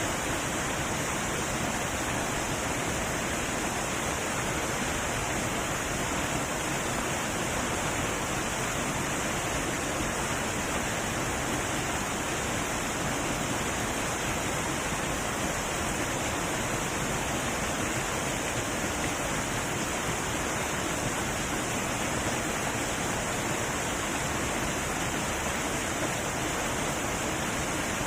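Heavy waterfall pouring steadily, an even rushing noise with no pauses or separate splashes.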